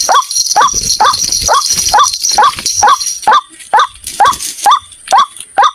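White-breasted waterhen calling: a short note repeated evenly about twice a second, the lure call used to draw these birds in.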